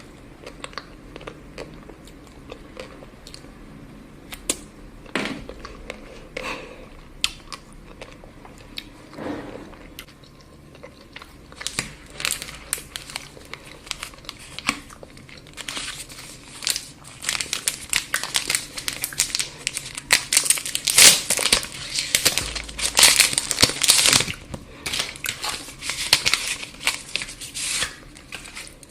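Chocolate wrapper crinkling and being torn open. A few scattered crackles come first, then rustling that grows dense and loud through the second half.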